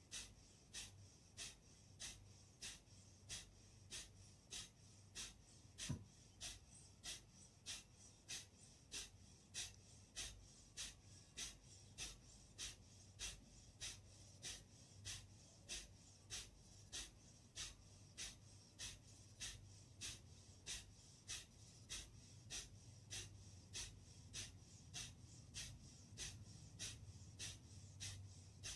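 Kapalbhati breathing: short, forceful exhalations through the nose in a steady rhythm, a little under two a second, each breath out pushed by a sharp pull of the belly. The sound is faint, and there is one brief click about six seconds in.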